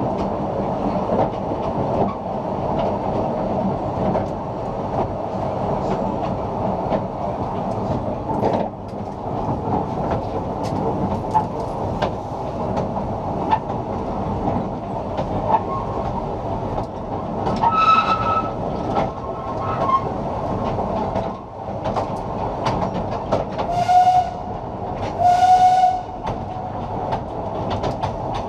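2 ft 3 in narrow-gauge steam train running along the line: a steady rumble with wheels clicking over the rail joints. Brief high pitched tones sound once about two-thirds of the way in and twice near the end.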